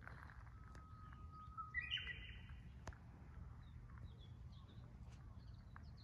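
Japanese bush warbler (uguisu) singing its hō-hokekyo song once: a long steady whistle starting about half a second in, followed near two seconds by a quick, louder flourish. A few faint, short high chirps come after it.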